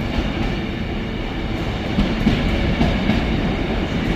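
Intermodal container freight train rolling past, its wheels rumbling and clattering irregularly over the track, a little louder from about two seconds in.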